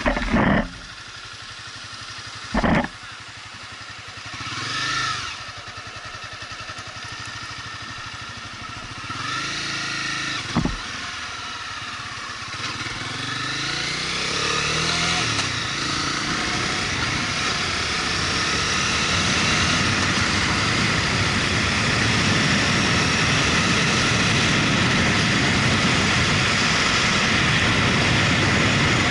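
Motorcycle engine running quietly at first, with a few short sharp knocks in the first ten seconds. From about twelve seconds the engine pulls away, its pitch rising in steps through the gears, and it settles into steady riding noise mixed with wind.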